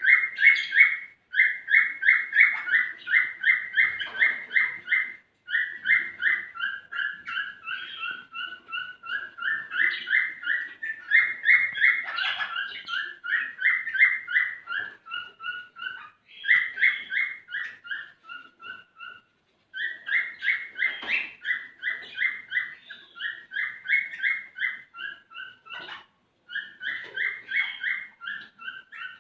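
Male cockatiel singing its courtship song, a run of short repeated whistled notes about three a second, in phrases broken by brief pauses. It is the male's song to get a female ready to mate.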